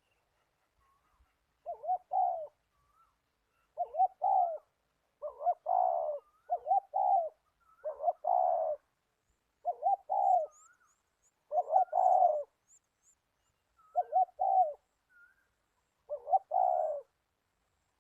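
Zebra dove cooing: nine short rippling phrases, one every second or two, with faint higher chirps between them.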